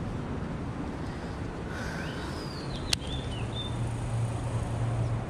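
Outdoor background with a few short bird chirps about two seconds in, a single sharp click about three seconds in, and a low steady hum coming in near the end.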